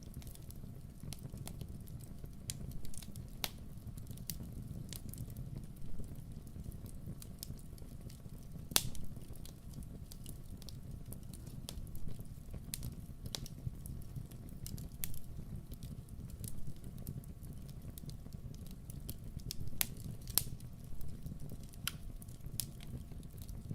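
Wood fire burning with a steady low rumble, popping and crackling at irregular intervals; the sharpest pops come about nine and twenty seconds in.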